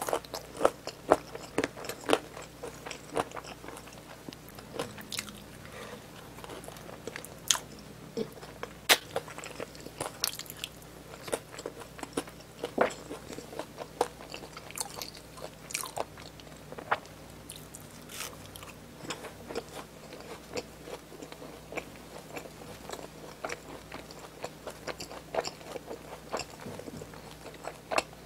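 A person chewing and biting food close to the microphone, with many sharp crunches and mouth clicks that are thickest in the first few seconds and scattered after that.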